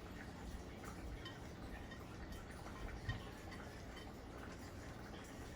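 Faint scattered clinks and ticks of kitchenware, with a soft knock about three seconds in.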